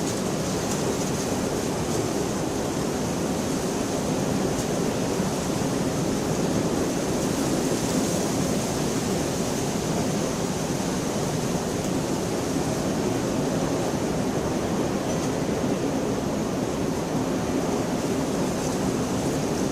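Steady rainfall: a dense, even hiss of rain with no thunder.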